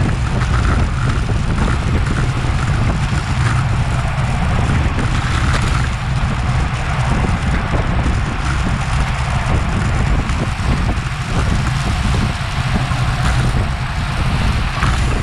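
Steady wind noise buffeting a Garmin VIRB action camera's microphone on a bicycle at racing speed. It is a continuous low rumble with a rushing hiss over it.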